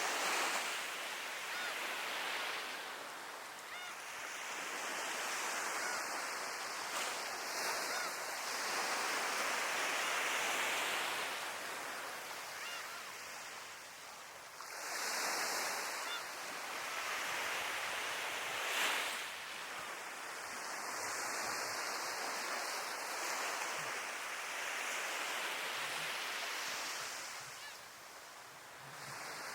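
Sea waves breaking and washing up the shore, the surf swelling and ebbing every few seconds, with a sharper crash a little past the middle.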